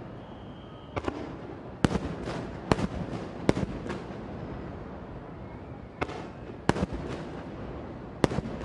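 Aerial firework shells bursting: about a dozen sharp bangs at uneven intervals, several coming in quick clusters, with a lull of a couple of seconds in the middle.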